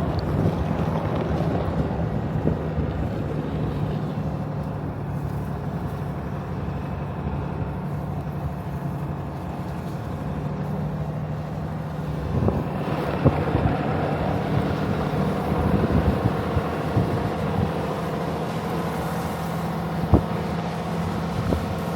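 Truck engine running steadily while driving a snowy, icy trail, with rough road noise that grows louder about twelve seconds in and a single sharp knock near the end.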